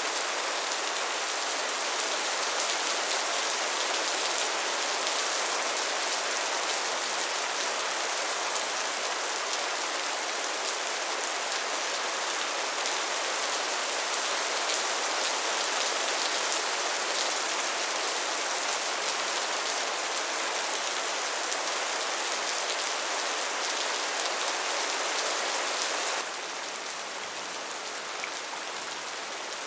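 Steady heavy rain falling on sheet tin, a dense patter of drops. About 26 seconds in the sound drops abruptly to a quieter, thinner patter.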